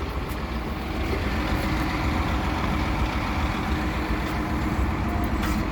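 Hino service truck's diesel engine idling steadily, with a few light clicks near the end.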